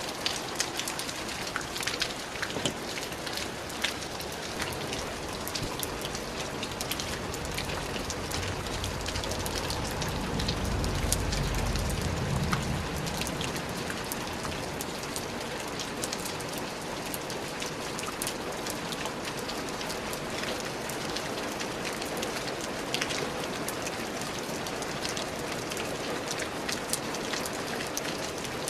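Steady rain falling, an even hiss with many distinct close drop ticks. A low rumble swells and fades around the middle.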